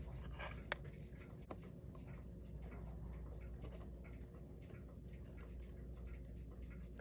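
Faint, irregular small clicks and taps of work on a Seiko 7S36 watch during disassembly, with a sharper click just under a second in and another about a second and a half in, over a low steady hum.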